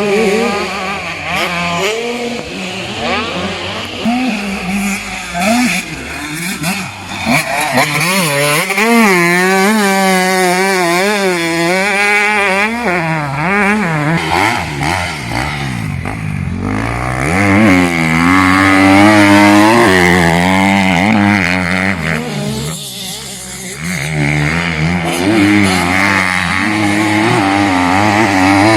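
Motocross bike engines revving hard, their pitch rising and falling quickly as the riders work the throttle, with more than one bike heard. The sound dips briefly twice as the bikes pass away, then comes back loud.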